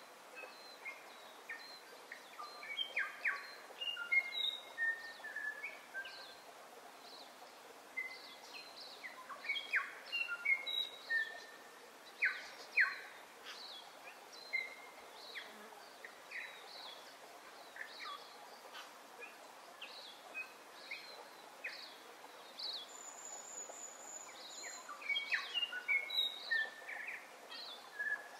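Birds chirping and whistling: a steady run of short chirps and quick whistled notes over a faint hiss, busiest in the first half and again near the end.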